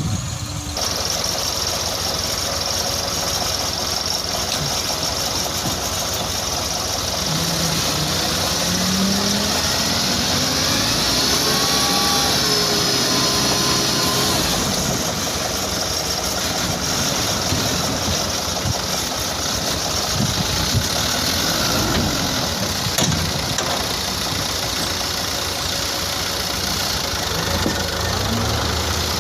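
Toyota Dyna dump truck's engine running steadily, with a faint whine that rises and falls about a third of the way in.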